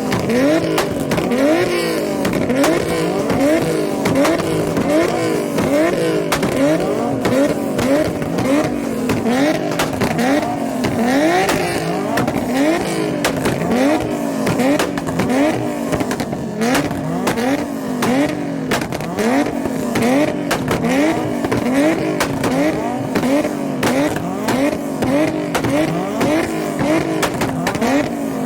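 Car engine revved over and over in an even rhythm, about one rev a second, each one climbing in pitch and then dropping off sharply.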